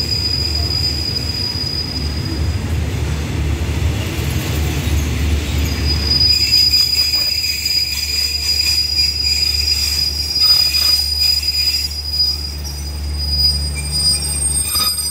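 State Railway of Thailand special express passenger coaches rolling slowly along the platform as the train brakes to a stop. There is a low rumble and a steady high-pitched squeal, which drops out about three seconds in and returns about three seconds later.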